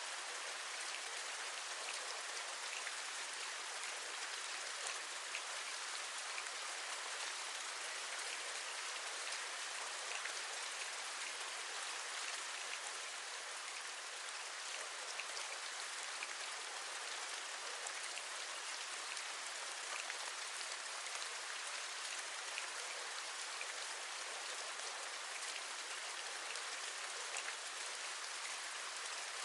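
Steady rain, an even hiss with scattered individual raindrops tapping through it.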